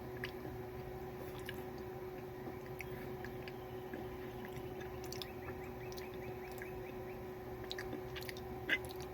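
Faint chewing of a very hard chocolate chip cookie, heard as scattered small crunchy clicks over a steady low hum, with one sharper click near the end.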